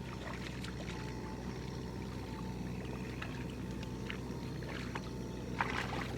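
Tractor engine running steadily with a low drone. Scattered short clicks and knocks sound over it, with a denser clatter just before the end.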